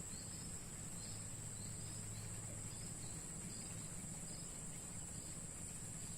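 Steady high-pitched insect trill with faint short chirps repeating about every two-thirds of a second, over a low rumble.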